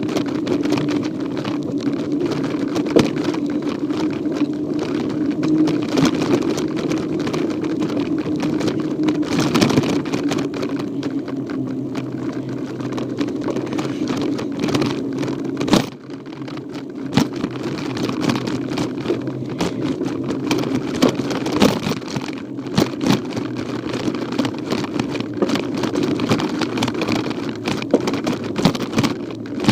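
Handlebar-mounted phone picking up a child's mountain bike rolling along a path: a steady drone with constant rattling and crackling from the tyres and the loose mount. A sharp knock about halfway through, as over a bump.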